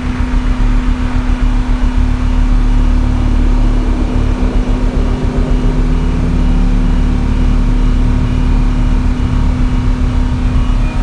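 Large standby diesel generator, driven by twin supercharged and turbocharged two-stroke Detroit Diesel engines, running steadily during its load test. It makes a loud, even drone with a fast-pulsing low rumble.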